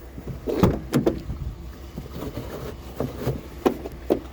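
A handful of knocks and clunks as scrap items are shifted into place on a loaded wagon, over a steady low hum.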